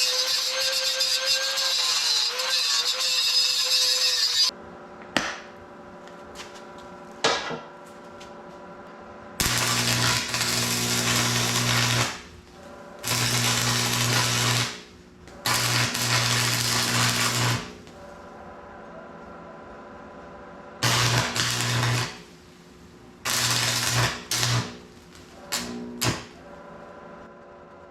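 Stick welding: the arc crackles in about six separate runs of one to three seconds each, over the strong low hum of a 110-volt transformer stick welder set to full power. For the first four seconds or so a different loud, steady tool noise with a wavering whine is heard.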